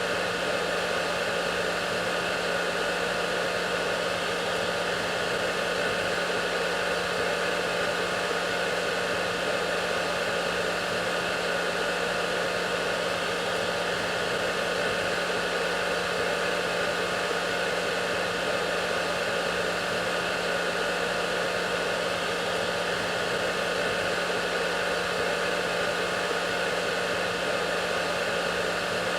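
Hair dryer running steadily: an even rush of air with a constant low motor hum underneath.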